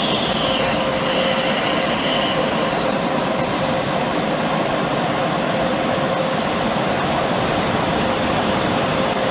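Belanger car wash tunnel equipment running: a loud, steady wash of spraying and machinery noise with a constant hum, and a brief high squeal in the first couple of seconds.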